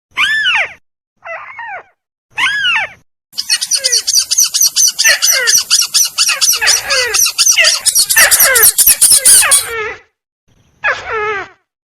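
Recorded lure calls of the tikusan, a small rail, played to draw birds in for trapping. Harsh down-slurred calls are repeated. From about three seconds in to about ten seconds, they crowd into a dense stretch of overlapping calls over rapid, high-pitched repeated notes.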